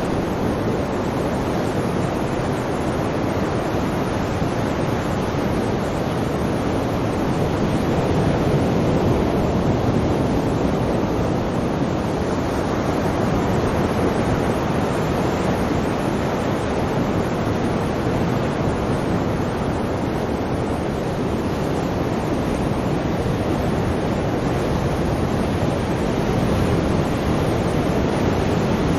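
Continuous sea surf: waves washing in a steady rush of noise that swells a little louder about eight seconds in and again near the end.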